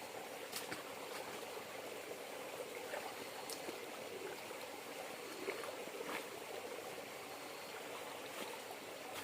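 River water flowing and trickling steadily, with scattered sharp ticks.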